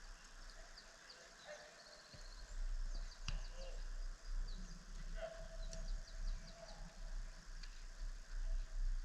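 Small birds chirping repeatedly in short high calls over a low rumble, with a single sharp knock a little over three seconds in.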